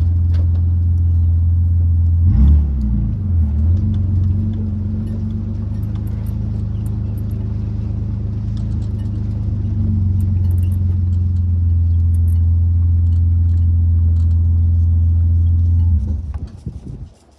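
A vehicle engine runs steadily at low revs, with a brief dip and recovery in pitch about two and a half seconds in. It is shut off near the end and dies away.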